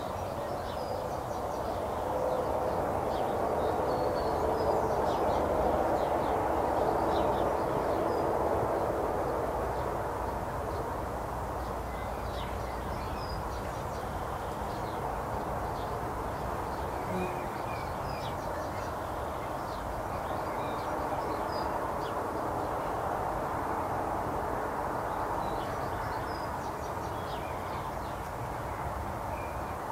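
Garden birds chirping and calling in short, scattered high notes, over a steady background hiss that swells slightly during the first ten seconds.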